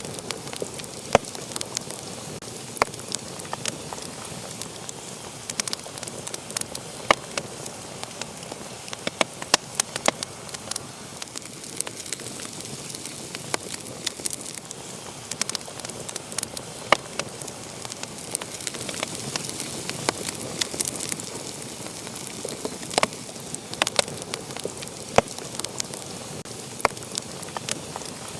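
Wood fire burning: a steady hiss with sharp, irregular crackles and pops.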